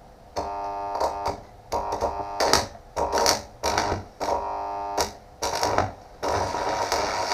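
MIG welder laying stitch welds on steel: about seven short bursts of buzzing arc with breaks between them, then a steady continuous run from about six seconds in.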